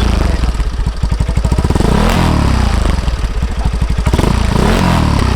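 Yamaha Mio Sporty scooter's single-cylinder four-stroke engine, bored out to 160cc and fitted with a JVT V2.1 aftermarket exhaust, revved several times in short blips, each rev rising and falling, then dropping back toward idle near the end.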